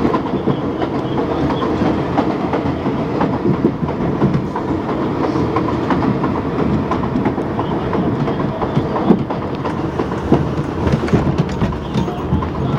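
R62A subway train running at speed, heard on board: a steady rumble of wheels on rail with irregular clicks and clacks from the track.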